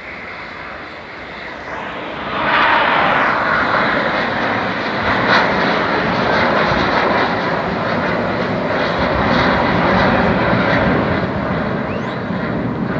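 Aircraft engine noise from a plane flying over, rising suddenly about two seconds in to a loud, steady roar that holds, then easing slightly near the end.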